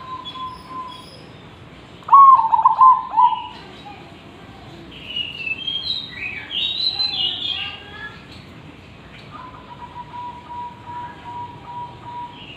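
Zebra dove cooing: a loud burst of rolling coos about two seconds in, then a long, softer trilled note near the end. Higher, quicker chirps from other small birds come in between.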